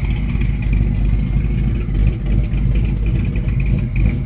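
Freshly installed 406 stroker V8 in a box Chevy idling steadily, its exhaust heard from the back of the car.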